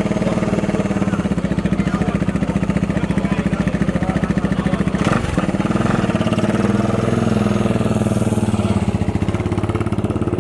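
Motorcycle engine idling close by, with a steady rapid firing beat. There is a single sharp knock about five seconds in.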